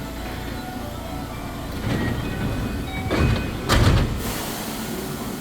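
Subway train rumbling, with three loud rushes of noise about two, three and four seconds in, the last the loudest.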